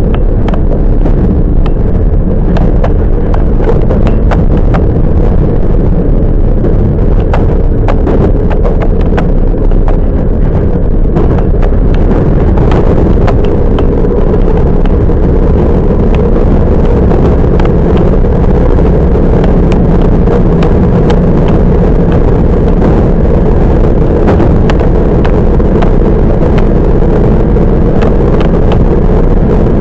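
Toyama Chihō Railway 10030-series electric train running, heard from inside the passenger car: a steady loud rumble of wheels and running gear with frequent clicks and clacks from the track.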